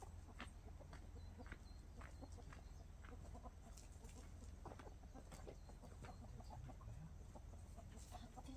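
Chickens clucking faintly, in short, scattered calls.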